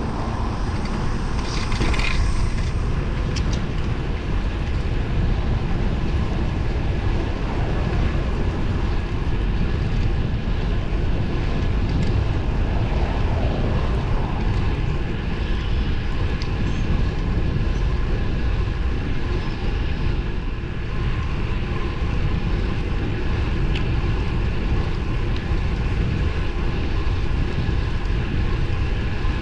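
Steady wind rush on the microphone with road noise from a road bike being ridden.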